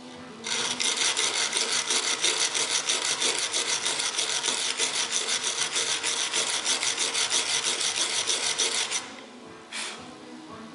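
Rapid back-and-forth scraping on a plywood formwork panel, about five strokes a second, cleaning residue from the damaged area. It stops about nine seconds in, and a brief swish follows near the end.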